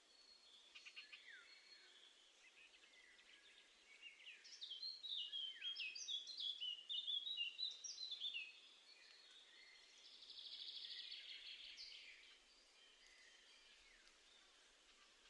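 Songbirds singing and calling: scattered calls at first, then a lively run of quick varied notes a few seconds in, and a buzzy trill near the end.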